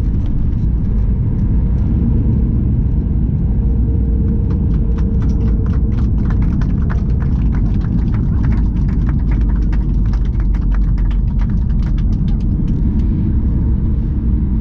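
Steady low rumble inside the cabin of a Boeing 737 MAX 8 airliner, with a run of quick rattles and knocks from about four seconds in until near the end.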